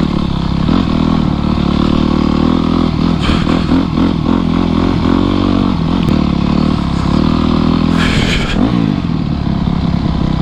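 Yamaha YZ250F four-stroke dirt bike engine running under load on a trail, its pitch rising and falling as the throttle is worked. A short hiss comes about eight seconds in.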